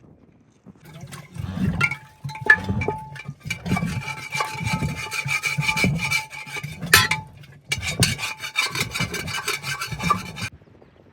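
Rhythmic scraping strokes, about one a second, each with a dull low thud, with a faint steady high tone running through them; they stop near the end.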